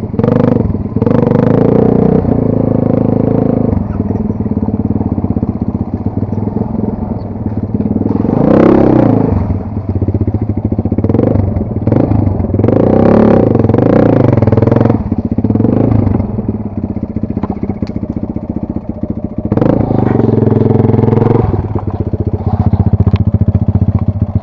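Small off-road motorcycle engine running under load, its revs rising and falling several times as it is ridden, with the loudest rev-up about a third of the way in.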